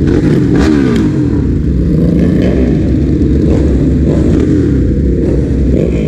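Ducati Hypermotard's L-twin engine running loud, revving up and easing off several times, its pitch rising and falling.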